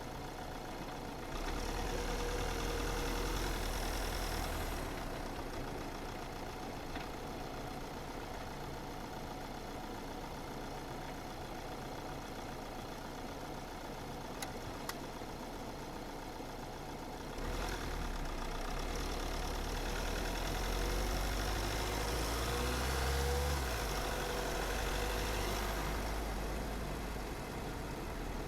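A car driving on a road, with steady engine and tyre noise. It grows louder twice, briefly about a second in and for a longer stretch from about 17 seconds in, with more low rumble and hiss.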